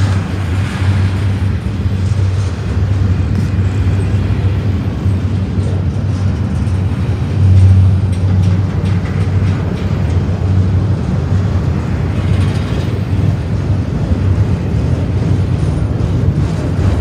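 Double-stack intermodal container cars of a freight train rolling past at close range: a steady low rumble of steel wheels on rail with scattered clicks. The rumble swells louder about halfway through.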